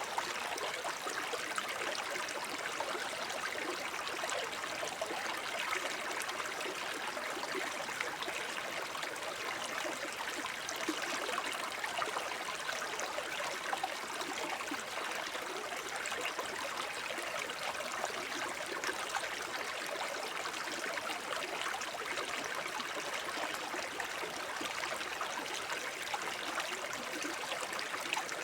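Small forest brook babbling steadily over stones, a continuous bright rush of water with fine gurgles and trickles.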